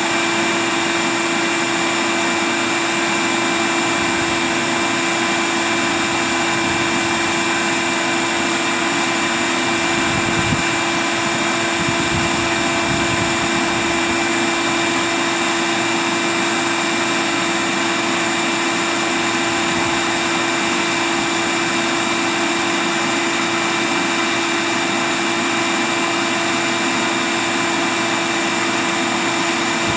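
Bee vacuum running steadily as it sucks bees off the branches of a swarm: a loud, constant motor whine with an unchanging hum.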